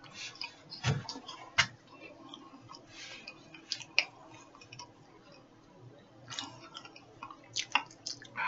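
A person chewing a pasty mouthful of dry crackers: irregular wet mouth clicks and short crunching bursts with pauses between.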